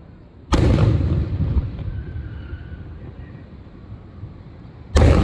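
Two aerial fireworks bursting, one about half a second in and another near the end. Each is a sharp boom followed by a rumble that echoes away over a second or two.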